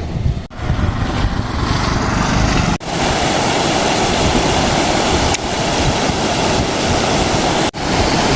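Steady outdoor rushing noise of wind buffeting the microphone over flowing river water, broken three or four times by abrupt cuts.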